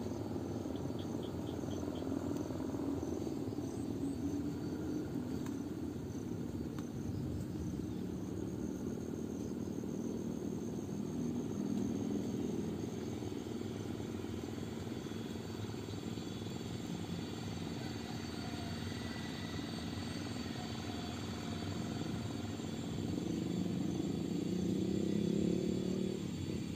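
Avro RJ85 jet airliner's four turbofan engines running: a steady rumble with a thin high whine over it, swelling a little near the end.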